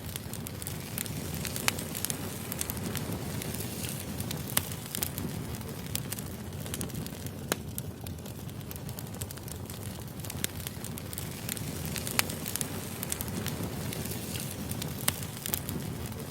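Firewood burning: a steady low rumble of flames with irregular crackles and pops, a few sharper snaps standing out among them.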